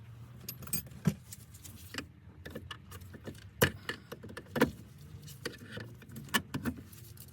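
Small metal clicks and clinks of a C-clip and washers being worked off the shifter linkage by hand and with a tool, a handful of sharp ticks at irregular intervals.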